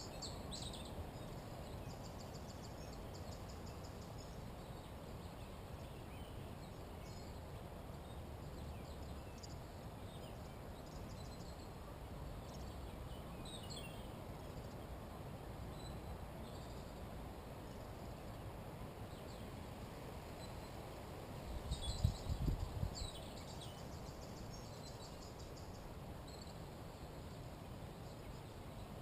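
Wild birds calling at a forest edge: short high chirps and trills now and then, loudest near the start and again about three quarters of the way through, over a steady low background rumble. A brief low rumble, the loudest sound, comes about three quarters of the way through.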